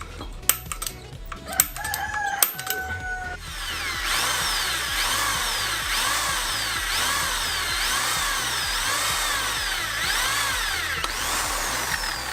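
Electric drill boring a hole in a steel motorcycle handlebar for the throttle housing. After a few knocks and brief spins of the motor, it runs steadily from about three seconds in, its whine rising and falling in pitch about once a second as the bit bites and eases.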